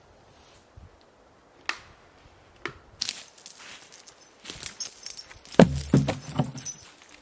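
Metal clinking and jingling, with scattered clicks at first, then a busier run of clinks with high ringing about three seconds in, and a few heavier knocks near the end.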